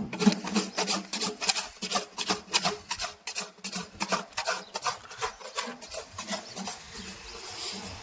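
Farrier's rasp filing a horse's hoof in quick scraping strokes, about three or four a second, thinning out near the end.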